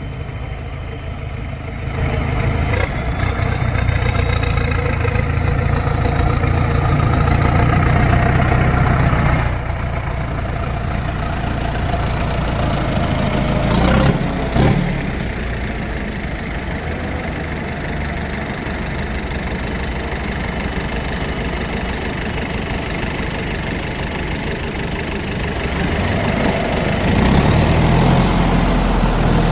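Heavy diesel engines of tractors and a stuck truck running under load, pulling harder from about two seconds in, easing back to a steady run near ten seconds, and building up again near the end. Two short sharp knocks come about halfway through.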